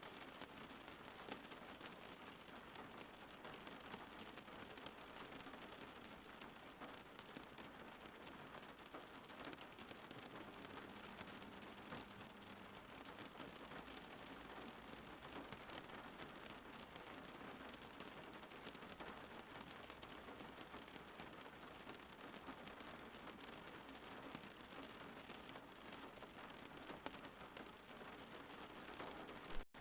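Steady, fairly faint rain falling, an even hiss with scattered individual drop ticks. A short sharp click with a momentary gap in the sound comes near the end.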